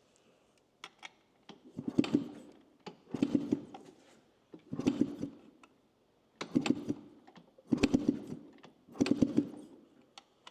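Two-stroke dirt bike engine turned over six times, about a second and a half apart, without firing: a spark check with the plug out, which shows no spark at the plug.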